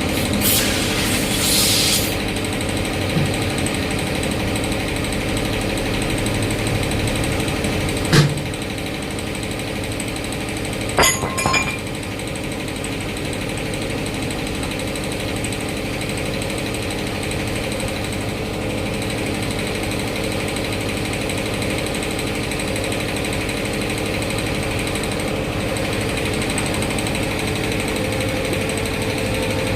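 A machine runs steadily with a rapid rattle throughout. A short burst of hissing air comes in the first two seconds, and sharp metallic clicks come at about eight seconds and about eleven seconds.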